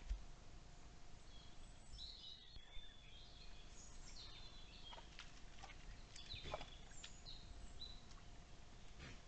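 Faint woodland birdsong: short high chirps and calls from small birds, with a few sharp clicks or snaps, the strongest about two-thirds of the way through. A thin steady tone hums underneath.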